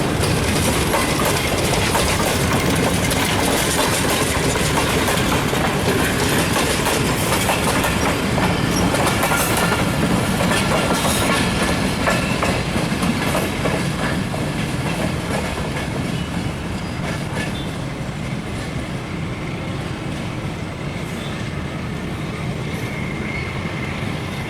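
Passenger train passing close by, its steel wheels clattering over the rail joints in a steady clickety-clack. The sound eases a little in the second half as the train moves off.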